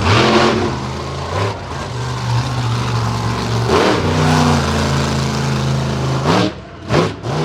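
Monster truck engine revving hard during a run, its pitch climbing and falling, with three short loud revs near the end.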